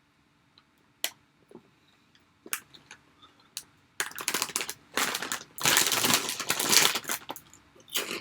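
A plastic snack bag being handled: a few light clicks and rustles, then about four seconds of loud, dense crinkling.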